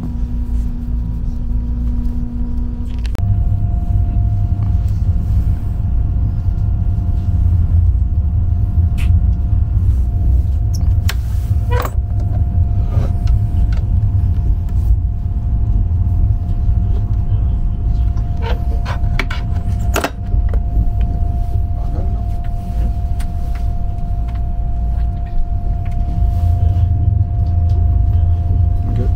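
Cabin noise of an ICE high-speed train under way: a steady low rumble, with a steady whine joining about three seconds in. A few scattered clicks and knocks sound over it.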